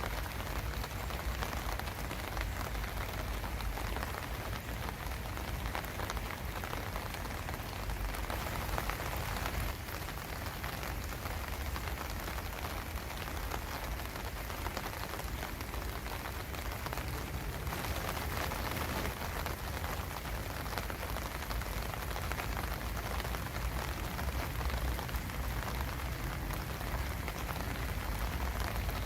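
Steady rain falling in an even, unbroken patter.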